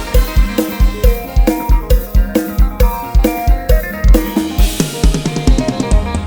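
Band music with an Addictive Drums 2 virtual drum kit playing a steady beat of kick and snare under bass and keyboard lines, breaking into a quick drum fill about five seconds in.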